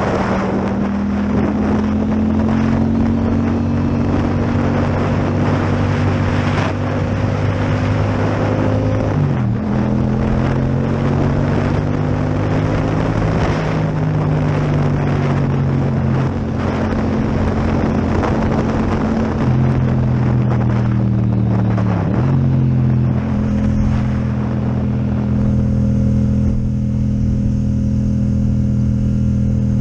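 Yamaha MT-07 parallel-twin motorcycle engine with an Akrapovic exhaust running under way, its pitch drifting slowly up and down and dipping sharply twice, around ten seconds in and again a little past twenty, with wind rushing over the microphone.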